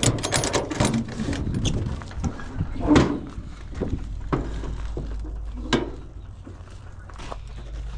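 A few sharp knocks and clanks of things being handled, the loudest about three seconds in and another near six seconds, over a steady low hum.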